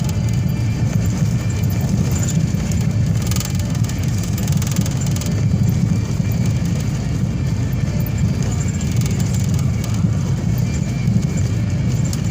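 Steady low rumble of a vehicle driving along a road, with road and engine noise and no breaks.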